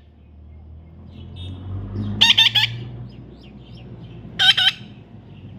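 Baby parrot calling: a quick run of three or four sharp squawking notes about two seconds in, then a shorter pair a couple of seconds later, with faint chirps between them.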